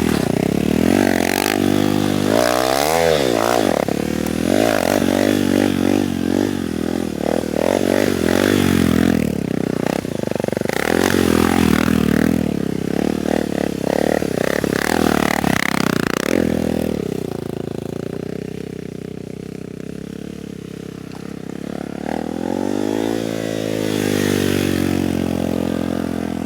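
Stunt motorcycle's engine revving up and down again and again as it is ridden. For several seconds past the middle it drops to a lower, steadier, quieter note, then the revs climb again near the end.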